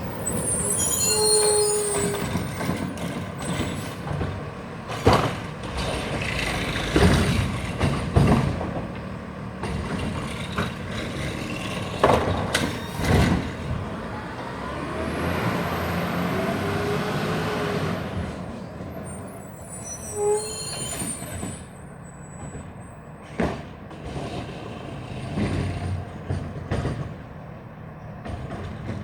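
Garbage truck running, with a high brake squeal near the start and again about two-thirds of the way in. Several loud bangs come in the middle, followed by a few seconds of steady hiss.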